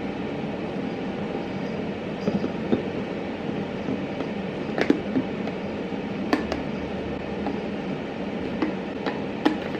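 Steady low hum of indoor background noise, with a handful of light clicks and knocks scattered through it.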